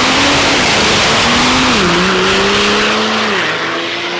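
Turbo-diesel Pro Mod drag truck accelerating hard down the strip at full throttle, with a heavy rush of turbo and exhaust noise. The engine pitch climbs and drops with each upshift, about half a second in, just under two seconds in and about three and a half seconds in.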